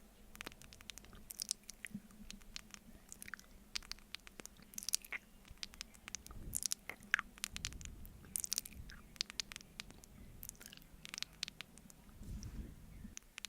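Close-miked wet mouth sounds of eating honey off a spoon: sticky smacks and quick clicks coming irregularly, a few every second.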